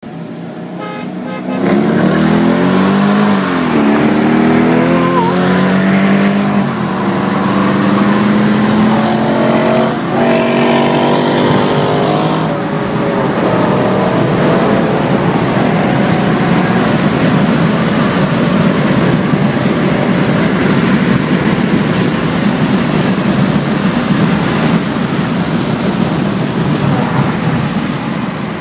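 Mercedes-Benz V8 accelerating at full throttle, heard from inside the car: the engine note climbs in pitch and drops back several times as the automatic gearbox upshifts. After about twelve seconds it gives way to a steady roar of wind and road noise at high speed.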